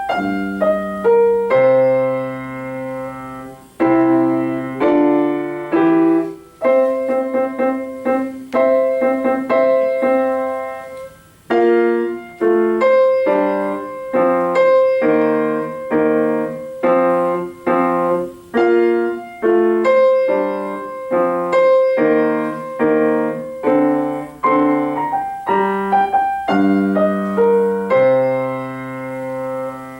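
Solo piano playing a slow piece: chords and single notes struck one after another and left to ring out, with a few held notes fading away between phrases.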